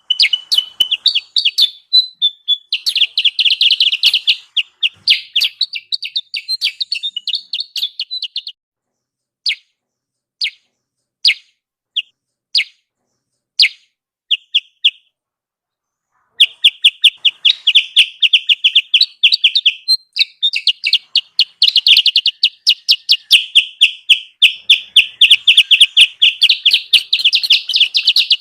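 A kutilang sutra lure-call recording: rapid, loud runs of high chirps. The first third holds dense chattering. From about 9 to 15 seconds in come single spaced notes, then a short pause. At about 16 seconds in the fast chattering starts again and runs on.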